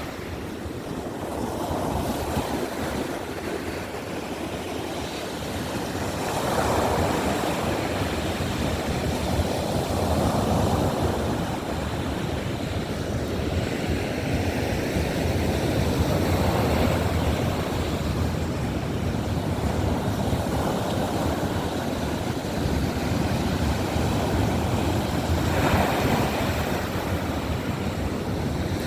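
Baltic Sea surf: waves breaking on the beach, swelling and falling back every few seconds.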